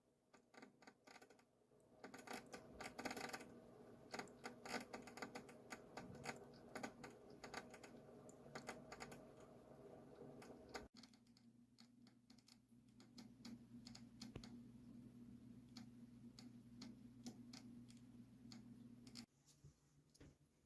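Dophin FC-604 side-mounted aquarium filter running: a faint steady motor hum with dense, irregular ticking over it, the ticking noise the filter is being fixed for. The hum stops shortly before the end.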